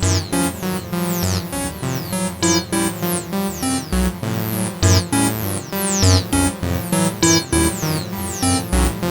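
Acid electronic music played live on the AcidMachine: a sequenced, fast-moving synth line of short notes over a steady low beat, with high sweeps falling in pitch repeating several times a second.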